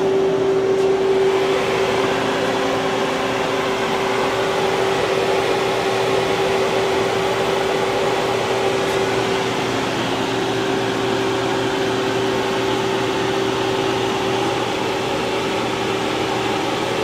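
Steady hum of a powered-up Haas VF-3 vertical milling center standing idle, fans and motors running with one constant mid-pitched tone over an even whir.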